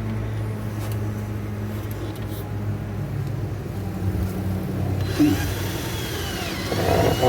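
A steady low mechanical hum, like a motor or engine running, with a higher sliding tone near the end.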